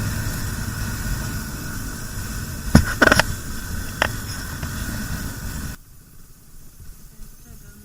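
Motorcycle riding along a rough, stony road: a steady low rumble of engine and wind with a few sharp knocks about three and four seconds in, then the sound cuts off suddenly to a much quieter background about six seconds in.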